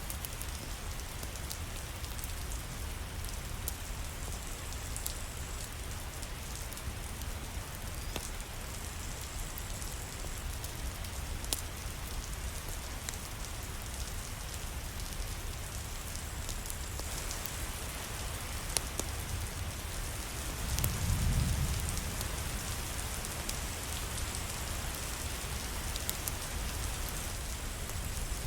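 Steady rain falling, an even hiss with scattered sharp ticks of drops. About three-quarters of the way through there is a brief low rumble.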